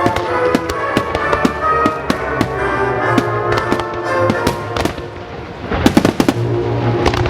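Fireworks going off in a rapid string of sharp bangs and crackles over music, with a dense cluster of bangs about six seconds in.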